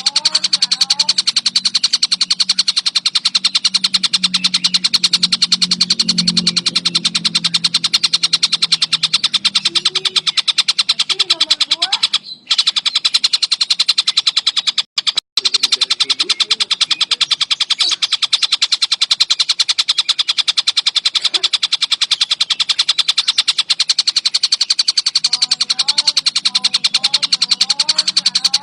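Tengkek buto kingfisher giving a loud, continuous, very fast rattling trill. It drops out briefly about twelve seconds in and twice around fifteen seconds, where the recording is cut and looped.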